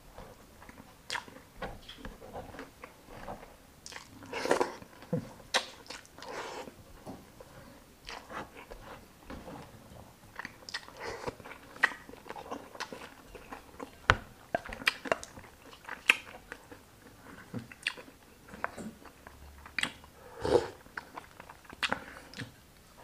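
Close-miked eating: chewing and mouth smacks of grilled chicken and rice eaten by hand, in short irregular clicks with a few louder wet smacks.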